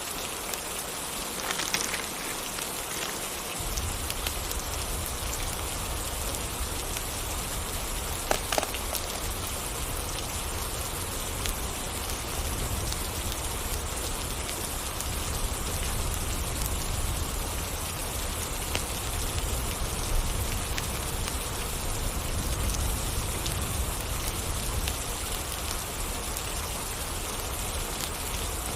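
Steady rain falling and pattering on surfaces, with a few sharp ticks of drops. A low rumble joins underneath a few seconds in.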